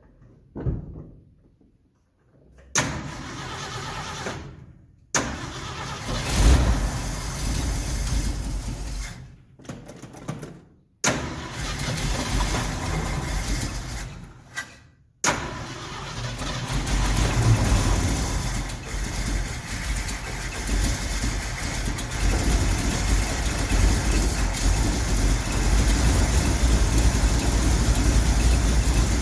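Engine of a 1969 Ford F100 pickup being started on a freshly rebuilt carburetor whose float bowl starts out empty. It is cranked and catches in several short goes with brief pauses between. About halfway through it keeps running steadily, though the owner soon says it doesn't sound right.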